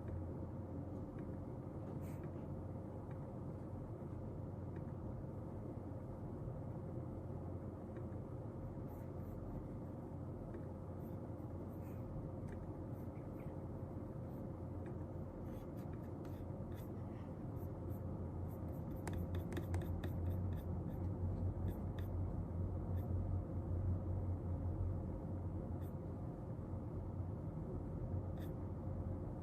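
Pen writing on paper: scattered light scratches and taps, busiest about two-thirds of the way through, over a steady low room hum with a faint steady tone.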